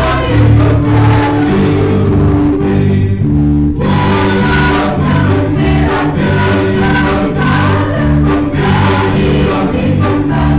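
Church choir singing a Christmas hymn in parts with instrumental accompaniment and sustained chords.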